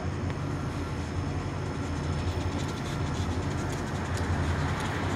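Approaching train: a steady low rumble that grows gradually louder, with sharp high clicks joining about halfway through and becoming more frequent.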